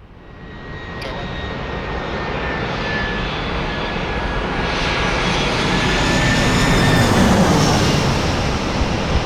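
Jet airliner passing close by. Its engine noise builds quickly about a second in and peaks around seven seconds in, with a high engine-fan whine running through it.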